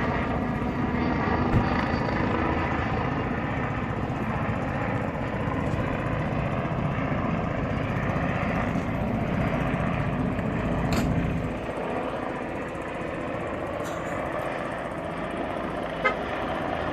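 Medical helicopter approaching to land: steady turbine whine over the beat of the rotor, with the low rumble dropping off about eleven seconds in.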